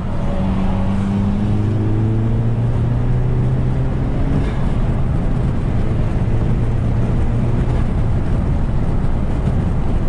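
In-cabin sound of a 2011 Volkswagen GTI's turbocharged 2.0-litre four-cylinder engine with a stage 2 tune, under way with road noise. A steady low engine drone whose higher tones edge up in pitch over the first few seconds, then hold.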